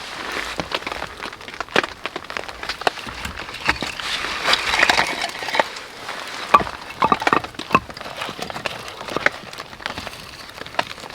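Irregular cracks and snaps of wood, with a brief hissing stretch about halfway through.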